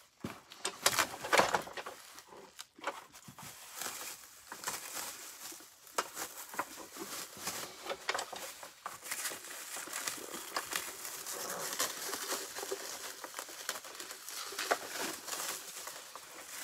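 Plastic packaging being handled: crinkling and rustling, with louder rustles about a second in and scattered sharp crackles.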